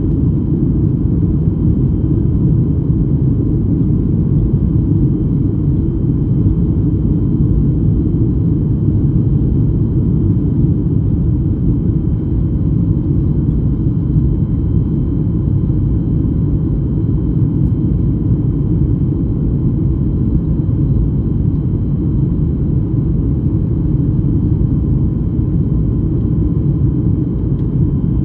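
Airliner cabin noise in flight: a steady, loud low rumble of engine and airflow, with a few faint steady whining tones above it.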